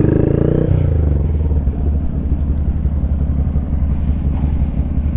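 Modified Honda Grom's 125 cc single-cylinder engine, fitted with an aftermarket loop exhaust, running at low revs. The revs rise and fall briefly in the first second, then hold steady.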